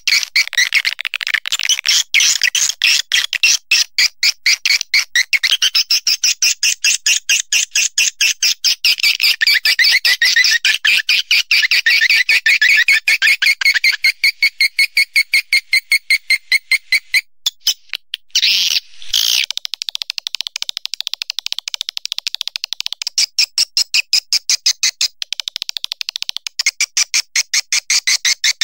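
Recorded swiftlet calls used as a lure for a swiftlet nesting house: a fast, unbroken train of high chirping twitters, several per second. It breaks off briefly about eighteen seconds in, then resumes.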